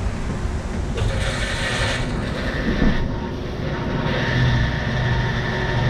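A vehicle engine running, its steady low hum coming in about four seconds in over a rumbling outdoor noise.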